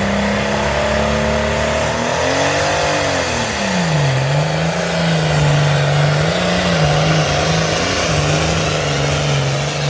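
International farm tractor's diesel engine at full throttle, pulling a weight-transfer sled. The engine note climbs, sags sharply about four seconds in as the load comes on, then wavers up and down as the tractor fights for traction.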